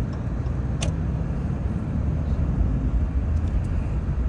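Steady low rumble of a car's engine and road noise, with a single sharp click about a second in.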